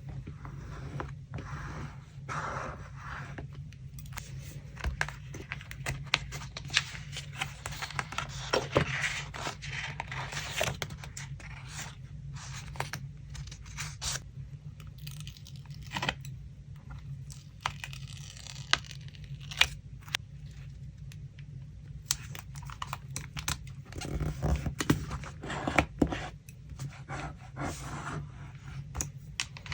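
Paper being handled for a collage: tearing, rustling and scraping of paper with many small sharp taps and clicks, over a steady low hum.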